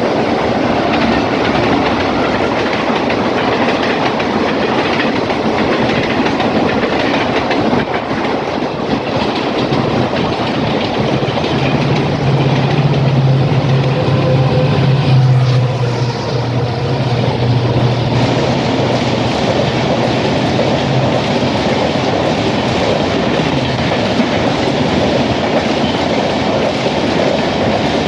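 Express train running on the track: a steady, loud rumble of wheels on rails. A low hum joins in about ten seconds in, grows strongest a few seconds later, and fades out about twenty seconds in.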